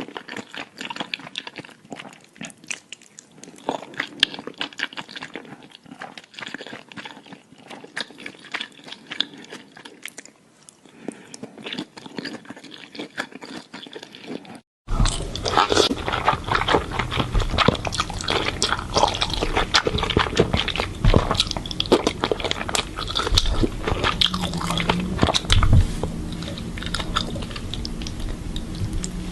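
Close-miked chewing and biting of curry noodles with cheese: dense wet smacks and crunches. There is a brief break about halfway, after which the chewing is louder.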